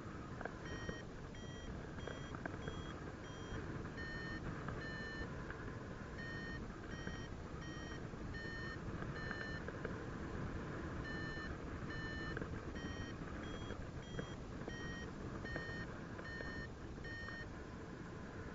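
Paragliding variometer sounding its climb tone: a run of short, high electronic beeps, about two a second, the sign that the glider is climbing in rising air. Steady wind rumble on the microphone underneath.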